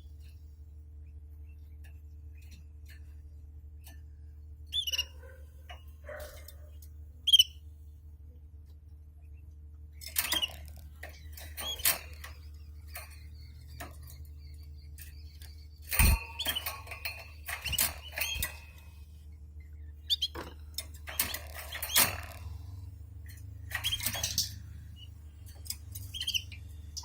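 Pet canaries in a cage giving short, scattered chirps among small clicks and rustles, with a sharp knock about halfway through, over a steady low hum.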